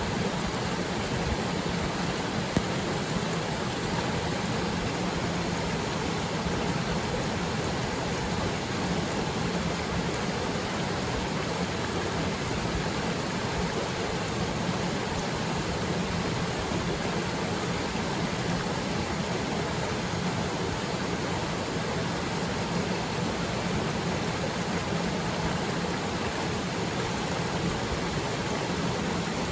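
Small waterfall pouring into its plunge pool: a steady, even rush of falling water. One brief click about two and a half seconds in.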